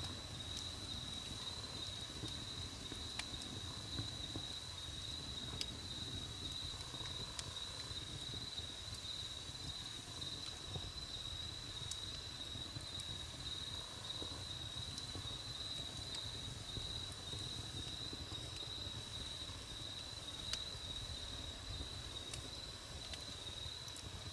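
Wood campfire crackling with sparse, sharp pops every second or two, under a steady high-pitched insect trill that never stops.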